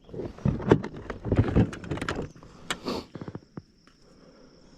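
Handling noises of knocks, clicks and rubbing as a freshly caught bass and gear are handled in a kayak, dying away after about three and a half seconds. Then a faint steady high insect trill, typical of a cricket.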